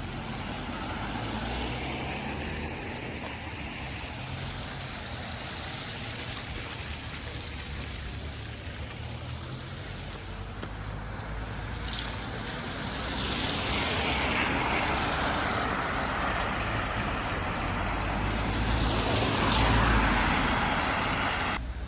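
Road traffic passing: a steady wash of engine and tyre noise that swells about halfway through and peaks near the end as a vehicle goes by.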